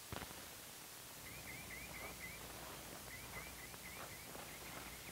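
A small bird singing faintly outdoors: three quick runs of short, high chirping notes, about five notes to a run, over a low steady background. There is a sharp click right at the start.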